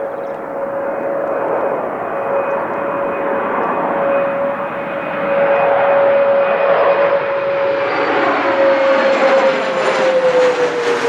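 Aircraft engines growing louder as a plane approaches and passes close by: a steady whine over a rush of noise, the whine dropping in pitch near the end as the aircraft goes past.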